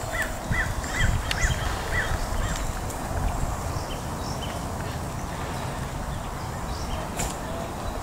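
A low, steady outdoor rumble, with a bird calling a quick run of about six short, arched notes in the first two and a half seconds and faint higher chirps scattered throughout.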